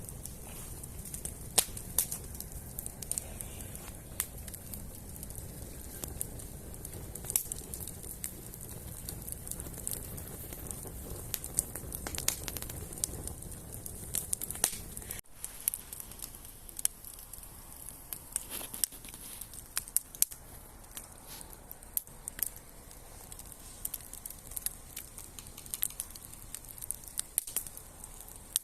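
Wood bonfire crackling, with sharp irregular snaps and pops over a steady hiss of burning. A low rumble beneath it stops suddenly about halfway through.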